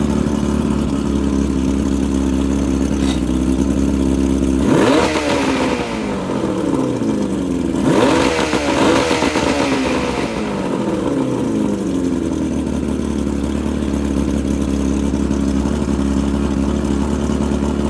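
Two-stroke boat engine running fast and steady at high speed. It passes by twice, about five and eight seconds in, each time getting louder and then dropping in pitch.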